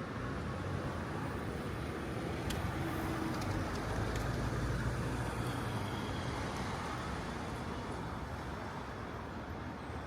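Steady ambient city rumble, like road traffic, swelling a little in the middle, with a few faint clicks.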